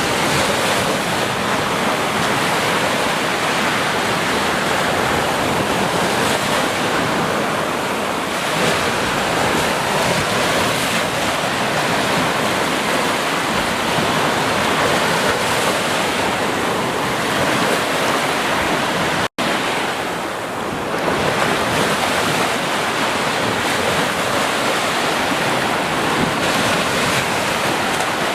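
Ocean surf washing continuously onto a beach, swelling and easing slowly. A momentary gap cuts the sound out for an instant about two-thirds of the way through.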